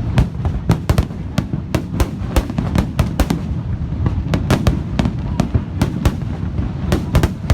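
Fireworks display going off: a rapid, irregular barrage of sharp bangs and crackles, several a second, over a continuous low rumble.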